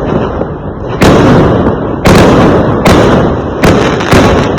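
Fireworks exploding: five loud bangs in close succession, each sharp at the onset and trailing off in a rumbling decay, coming closer together toward the end.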